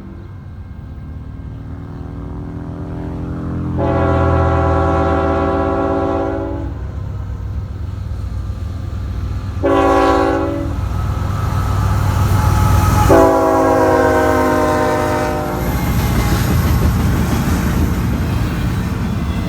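Diesel locomotive's multi-note air horn sounding in the grade-crossing pattern: a long blast, a short one, then a final long one whose pitch sags as the locomotive passes. Under it is the rising rumble of the engine, and after the horn comes the steady rolling of the train's wheels on the rails.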